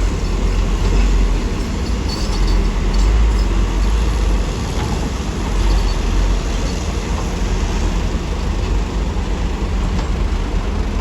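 Diesel engine of heavy earthmoving machinery running steadily, a constant low rumble with light clanks and rattles over it.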